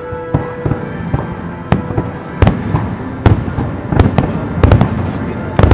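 Fireworks going off in a string of sharp bangs at irregular intervals, several in quick succession near the end, over the fireworks show's music played on loudspeakers.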